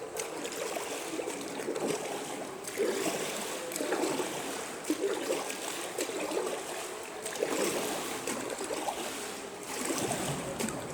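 Water splashing and trickling as kayak paddles dip and drip, a steady run of small, irregular splashes.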